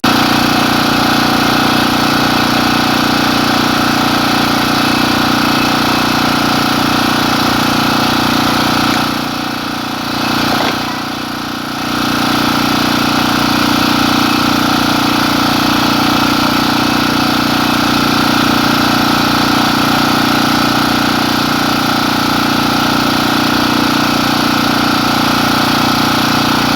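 An engine idling steadily. It briefly drops in loudness about a third of the way in, then returns.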